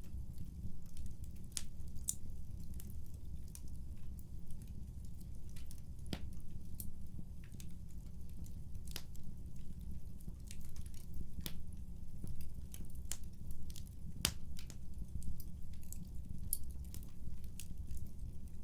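Wood fire burning in a fireplace: a low steady rumble under irregular sharp crackles and pops, with a few louder snaps now and then.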